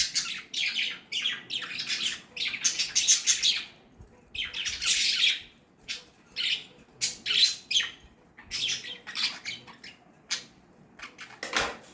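Pet lovebirds chattering in a run of shrill, harsh squawks and chirps, coming in clusters of short bursts with brief pauses between.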